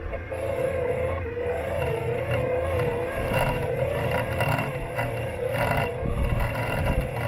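Robot lawn mower's electric motors running steadily at close range, a whine whose pitch wavers gently up and down. A low rumble runs underneath, with a couple of brief scrapes a few seconds in.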